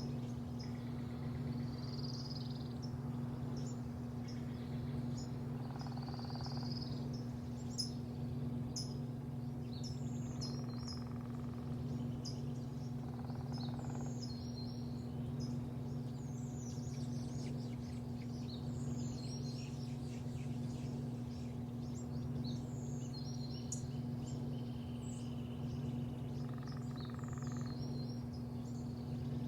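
Small birds chirping and tweeting many times over a steady, low mechanical hum.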